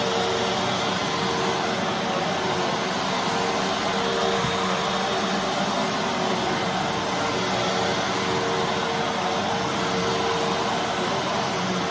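Fantom Fury Special Edition bagless vacuum cleaner running steadily: a constant rush of air with a steady motor hum underneath.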